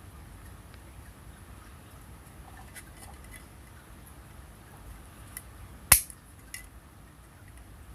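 A few faint clicks, then a sharp clink about six seconds in and a lighter one just after.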